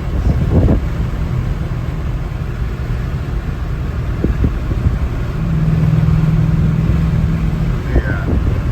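Straight-piped Dodge Charger R/T's V8 running while driving, a steady low exhaust drone that grows louder about five and a half seconds in and eases off near eight seconds.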